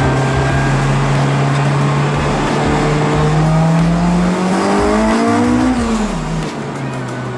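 Honda Integra Type R DC5's four-cylinder engine accelerating, its pitch climbing steadily for about five seconds, then dropping away as the throttle is lifted.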